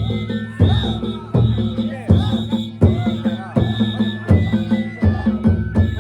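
Danjiri float narimono: drums beating a fast, driving rhythm with clanging hand gongs and a bamboo flute playing over them.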